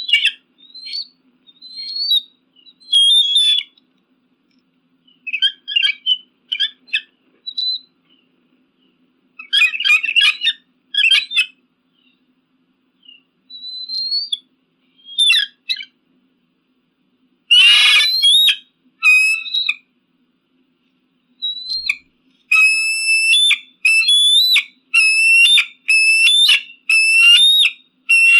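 Eagle calls: bursts of high, piercing, whistling calls with silent gaps between them, one harsher and louder call about two-thirds of the way in, then a steady run of repeated piercing calls, about one a second, near the end.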